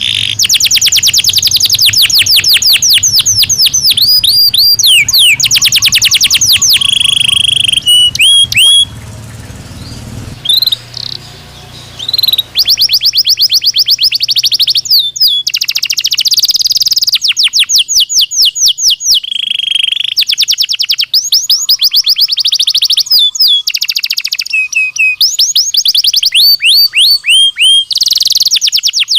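Belgian canary singing loudly in long, rapid trills of repeated notes mixed with sweeping notes, breaking off briefly about nine seconds in before resuming.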